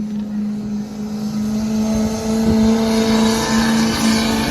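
Pulling truck's engine running hard under load as it drags the sled down the track, one steady note that grows louder over the first couple of seconds and then holds.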